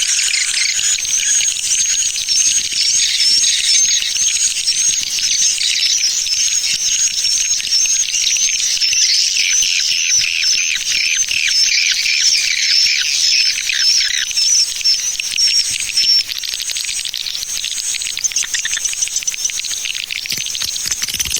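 Swiftlet lure sound: a recording of swiftlet calls, a dense stream of high chirps and twitters that is played to draw swiftlets into a bird house. The chorus thins out after about two-thirds of the way through.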